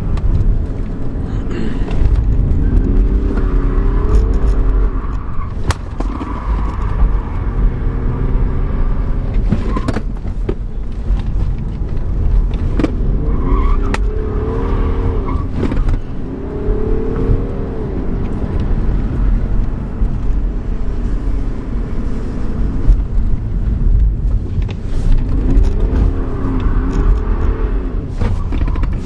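BMW 335d's twin-turbo diesel straight-six heard from inside the cabin, revving hard and easing off in repeated surges. A few sharp knocks come through now and then.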